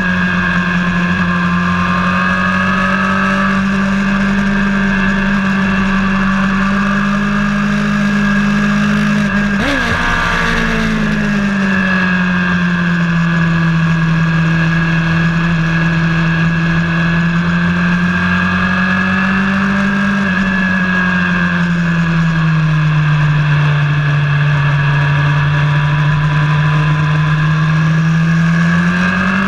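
Vehicle engine running hard at steady high revs, its pitch slowly rising and falling as it is driven round a race track. About ten seconds in, the pitch jumps briefly and then settles lower.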